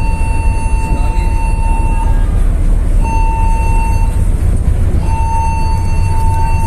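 A ship's alarm sounding a steady buzzing tone in on-off blasts: one cutting off about two seconds in, a short blast about a second long, then another long one starting about five seconds in, over a constant low rumble. On a passenger ship on fire, it is the sign of the emergency alarm being raised.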